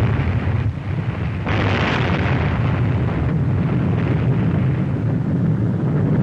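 Sustained loud rumbling roar, like a blast or launch, after a countdown. It dips briefly about a second in and surges again about half a second later.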